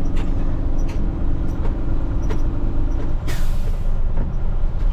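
Heavy truck diesel engine running steadily, then a short hiss of released air about three seconds in, as from the air brakes. Scattered faint ticks sound throughout.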